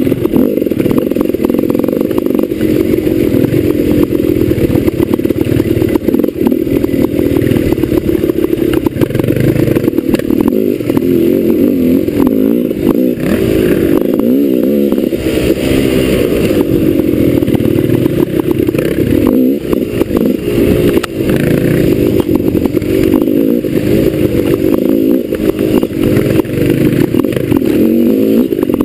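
Off-road motorcycle engine running continuously, its pitch rising and falling as the throttle is opened and closed, with frequent knocks and clatter.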